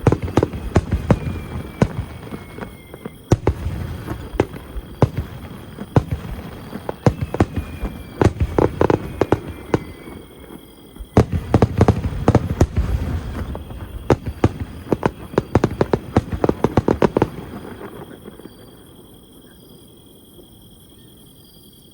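Aerial fireworks bursting in rapid volleys: many sharp bangs and crackles over a low rumble, in several dense clusters that die away about four seconds before the end.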